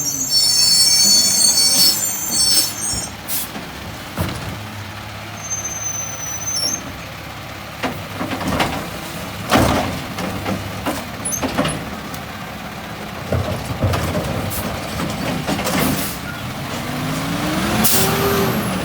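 Garbage truck working its route: a high squeal at the start, several sharp knocks in the middle, and the diesel engine revving up and back down near the end.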